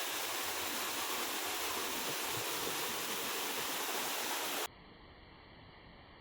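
Prut Falls waterfall: a steady rush of falling water, which cuts off suddenly about four and a half seconds in, leaving only a faint hiss.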